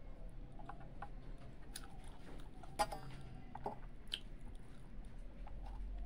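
A person chewing a mouthful of rice and fried fish close to the microphone, with soft wet mouth sounds and scattered small clicks; one sharper click, the loudest sound, comes near the middle.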